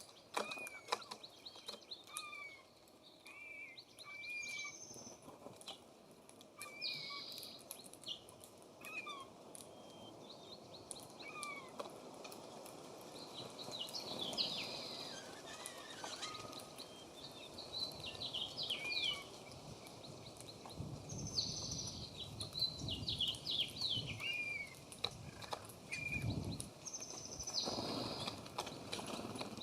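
Several songbirds calling and singing: repeated short chirps, quick trilled phrases and a few swooping notes, with a few soft low thumps or flutters in the second half.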